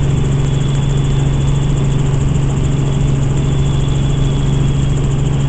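Helicopter in flight: a loud, steady drone of engine and rotors, with a faint high steady tone above it.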